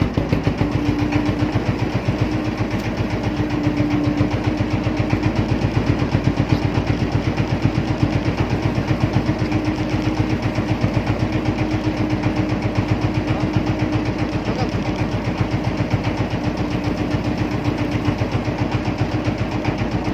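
Small fishing boat's engine running steadily, with a rapid even chugging pulse and a steady hum.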